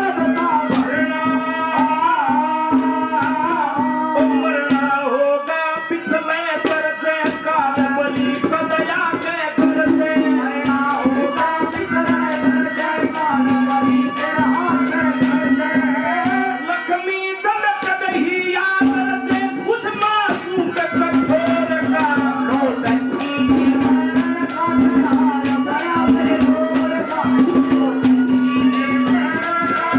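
Instrumental break of Haryanvi folk ragni music: a melody line over a steady low drone, with a fast hand-drum rhythm.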